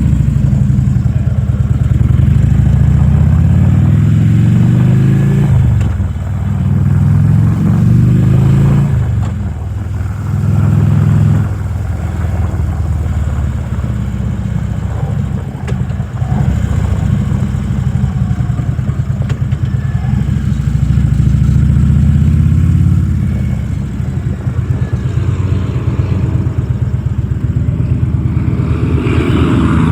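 Harley-Davidson Electra Glide's V-twin engine running under way. Its pitch climbs several times as it accelerates, dropping back between gear changes.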